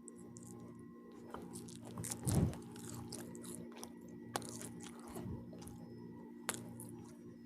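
Close-miked chewing and biting of pizza, with sharp wet mouth clicks scattered throughout and a louder bite or crunch a little over two seconds in.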